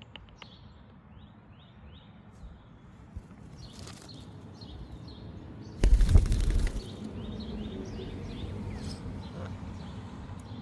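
Birds chirping outdoors in short, repeated high notes. About six seconds in comes a loud rustling burst lasting about a second, followed by a steady low rumble of background noise.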